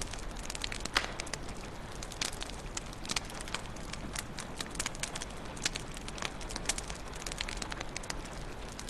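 Fire crackling in a fireplace: irregular sharp pops and snaps over a soft steady hiss, with one louder pop about a second in.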